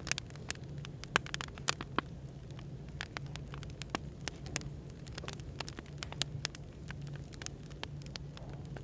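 Wood fire crackling, with frequent irregular sharp pops, over a steady low hum of café background noise.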